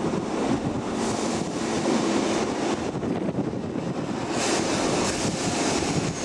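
Transport for Wales Class 769 bi-mode multiple unit creeping slowly along the platform road, giving a steady rumble of engines and wheels on rail.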